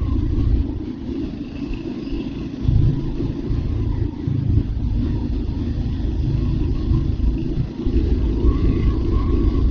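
Royal Enfield Hunter 350's single-cylinder engine running under way, a continuous low rumble that eases about a second in and picks up again near three seconds.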